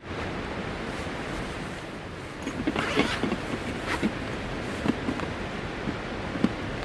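Steady rain falling, an even hiss, with a few sharp drip taps scattered through the second half.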